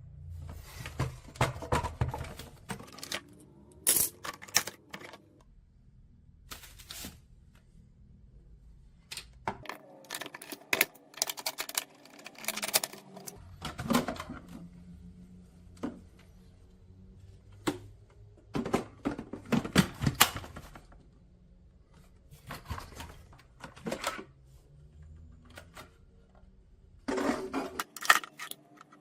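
Irregular clicking and clattering knocks, coming in clusters with short pauses between, over a faint low hum.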